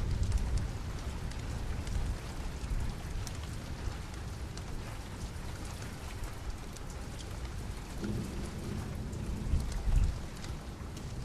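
Steady rain with low rolling thunder, swelling to a louder rumble about ten seconds in, over scattered small crackles from a fireplace.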